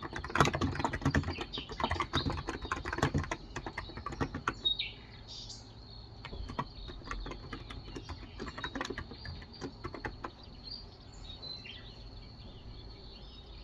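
Typing on a Cox Endeavour electro-capacitive (Topre-style) keyboard with 35 g switches: a fast, dense run of keystrokes for the first four seconds or so, then slower, scattered keystrokes. Birds chirp in the background now and then, over a steady high, thin tone.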